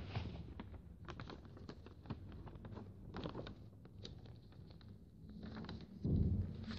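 A sheet of paper being folded and creased by hand: a run of small crinkles and taps, with a louder low bump near the end.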